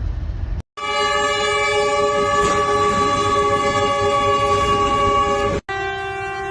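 Train horn sounding one long, steady blast, chopped off about five and a half seconds in and followed at once by another steady horn blast at a different pitch. A low rumble comes before the first blast.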